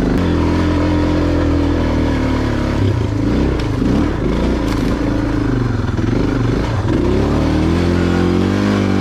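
Single-cylinder Suzuki DR dual-sport motorcycle engine running under the rider, its revs rising and falling on rough, steep dirt trail, with a few clatters and knocks from the loaded bike; the revs climb near the end.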